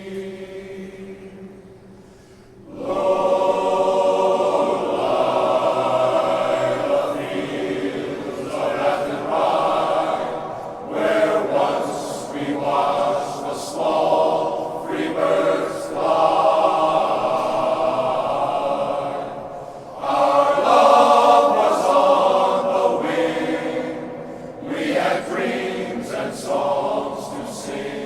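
Men's glee club singing together in full voice. A held chord fades out over the first two seconds, then the choir comes in loudly about three seconds in and sings on in long phrases, with a short dip near the twenty-second mark.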